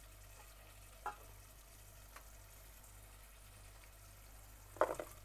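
Curry cooking in a steel saucepan on the stove, a faint sizzle of oil that has separated from the masala. A few light clicks, and a short louder clatter near the end.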